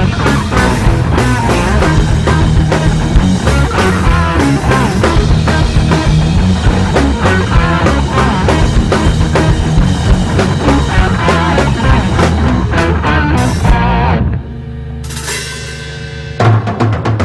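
Rock band playing loud psychedelic rock with guitar, bass and a drum kit. Near the end the band drops out to a quieter held low note for about two seconds, then comes back in at full volume.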